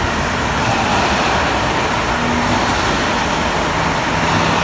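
Class 325 Royal Mail electric postal train passing at speed: a loud, steady rush of wheels on rails, with a low, steady hum coming in about halfway through.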